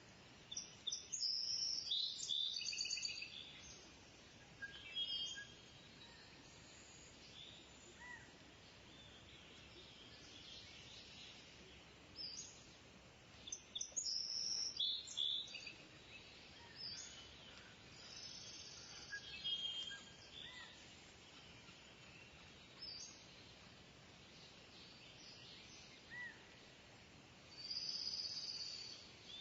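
Kingfisher calling: shrill, high-pitched calls in clusters a second or two long, repeated several times, the loudest near the start and in the middle. A faint steady outdoor background runs beneath.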